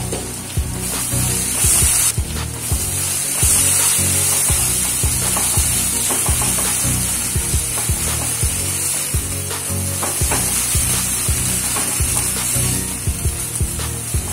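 Chopped onions and tomatoes sizzling in oil in a nonstick pan, stirred with a spatula that scrapes and taps against the pan in frequent short clicks.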